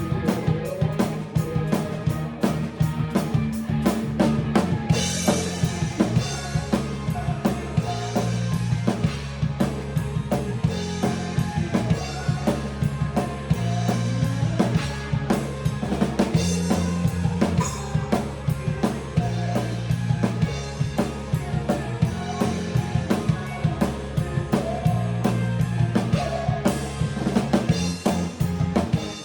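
Band music driven by a full drum kit: kick, snare and rimshots keep a steady, busy beat over a moving bass line, with cymbals coming in about five seconds in.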